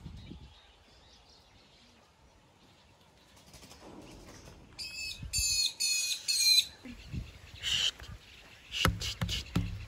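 A bird calling in loud, sharp, high chirps, four in quick succession, with another call a second later. Several soft low knocks follow near the end.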